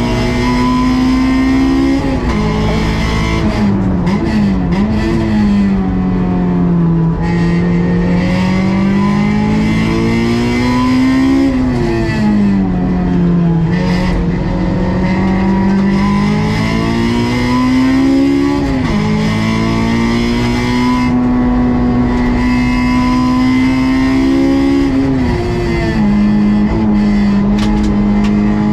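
Honda S2000 (AP2) stock four-cylinder engine at high revs under racing load. Its pitch climbs steadily and then drops sharply at gear changes several times.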